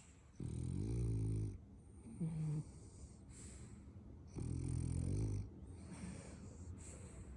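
French bulldog puppy snoring in its sleep: two long snores of about a second each, some four seconds apart, with a shorter, higher sound and breathy exhales between them. Snoring like this is typical of a flat-faced breed.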